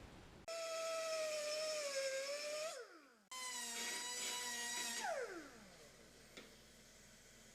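A high-speed power tool whining in two short runs, each one winding down in falling pitch after it is released; a small click follows.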